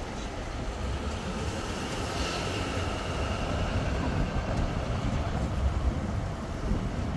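Steady road and engine rumble inside a pickup truck's cab at highway speed.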